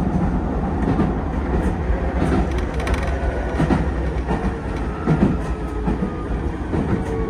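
Keisei 3000 series electric train heard from inside the front of the car, running along the track with a steady rumble and wheels clicking over rail joints. A faint whine comes in near the end.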